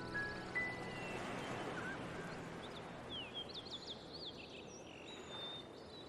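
Birds chirping in short, quick sweeping calls over a steady background hiss of outdoor ambience, with the last high notes of a rising musical phrase dying away at the start.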